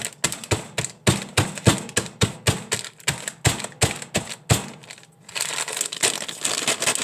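Food being smashed up by hand: sharp repeated knocks, about three or four a second, loud enough to be 'killing your ears'. After about five seconds the knocking gives way to a denser crinkling and rustling.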